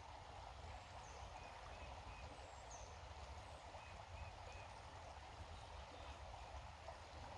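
Faint steady rush of a flowing creek, with a few faint, short, high bird chirps.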